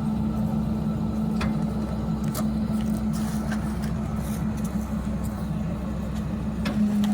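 Garbage truck running with a steady low hum, with a few sharp clicks and knocks over it.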